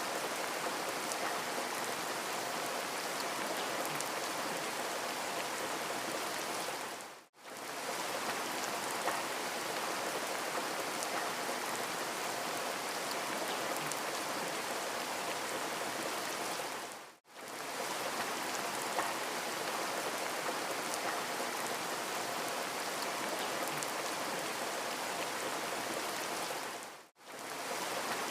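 Steady rain ambience, an even hiss of rainfall. It fades out briefly and straight back in about every ten seconds, three times, where a looped rain recording joins.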